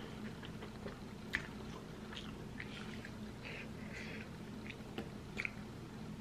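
Close-up mouth sounds of someone chewing soft, cheesy noodles, with wet smacking and a few sharp clicks, the loudest about a second in and another pair near the end. A steady low hum runs underneath.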